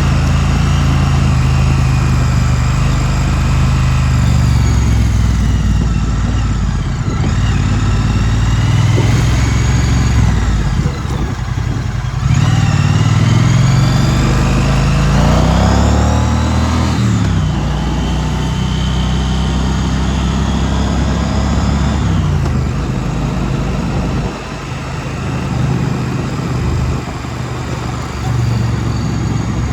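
2016 Triumph Street Twin's 900 cc parallel-twin engine running under way, its pitch climbing as it accelerates and dropping on gear changes or easing off, several times over, with wind noise.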